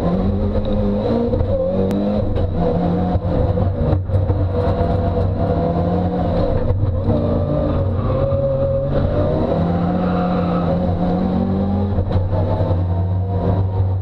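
Mitsubishi Lancer Evo IX's turbocharged 2.0-litre four-cylinder engine, heard from inside the cabin, accelerating hard from a standstill through several upshifts. The pitch climbs and then drops back with each gear change.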